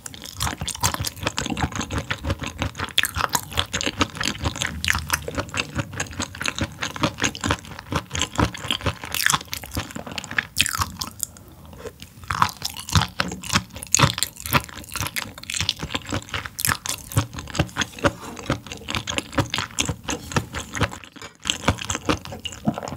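A person chewing food close to the microphone, a dense run of sharp mouth clicks several times a second that pauses briefly about eleven seconds in.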